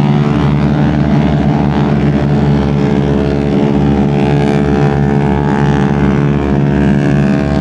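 Radial piston aircraft engine running steadily at low power, an even, unchanging engine note.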